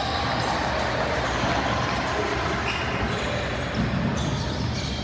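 Basketball bouncing on a gym court amid the steady, echoing noise of a game in progress.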